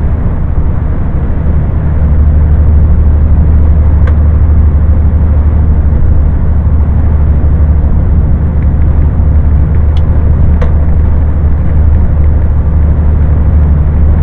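Scania truck driving at motorway speed, heard from inside the cab: a loud, steady low engine and road drone. A few faint clicks, one about four seconds in and two close together near ten seconds.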